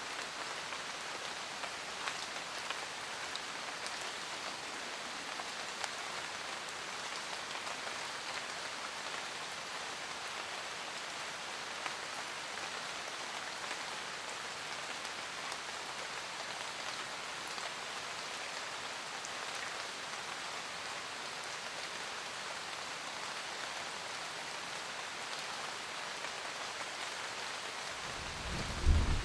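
Steady rain pattering on a camper van roof, an even hiss with scattered drop ticks. About a second before the end a loud, low thunder rumble breaks in.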